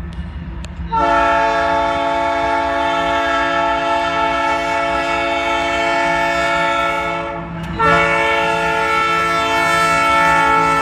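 Diesel locomotive air horn on a Canadian Pacific grain train, sounding a long blast from about a second in, cutting off briefly near the end, then sounding again. A low rumble runs underneath.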